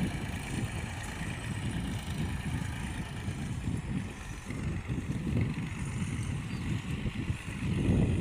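Fiat 480 tractor's diesel engine running, heard through heavy wind buffeting on the microphone.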